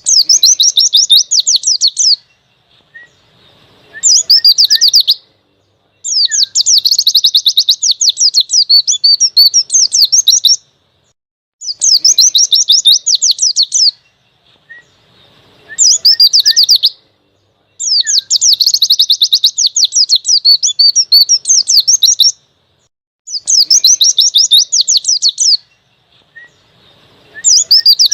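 White-eye (pleci) singing vigorously in rapid, high chattering trill phrases, each a couple of seconds long, repeated one after another with short pauses.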